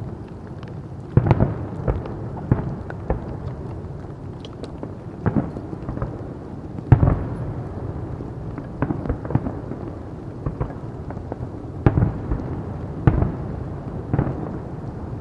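Fireworks display: shells bursting one after another at irregular intervals, sharp bangs about every second or so over a continuous low rumble, with the loudest bursts about seven and twelve seconds in.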